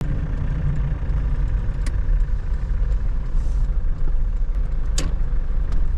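Steady low rumble of a motor vehicle running, with a couple of short sharp clicks about two and five seconds in.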